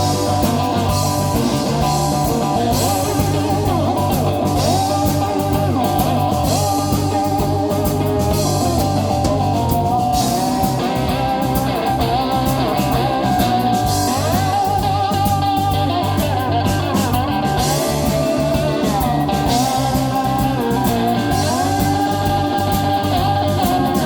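Live blues slide guitar on a cigar box guitar, the notes gliding up and down over a steady low backing.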